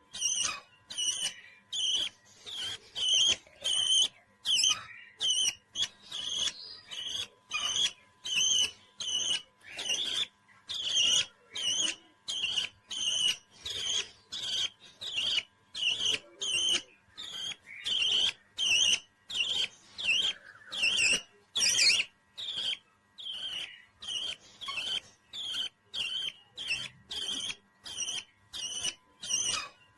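A pet parrot giving short, high chirping calls over and over at an even rhythm, about two a second.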